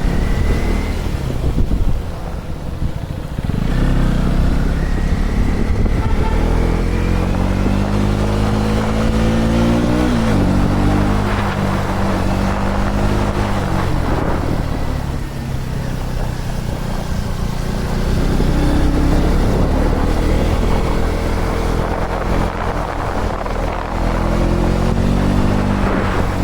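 KTM 250 Duke's single-cylinder engine pulling under way, its pitch climbing through each gear and dropping sharply at the upshifts, easing off once near the middle, with a rush of wind over it.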